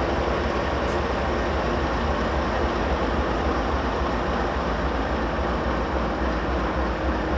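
Norfolk Southern diesel locomotives running light, with no cars behind them, passing with a steady rumble.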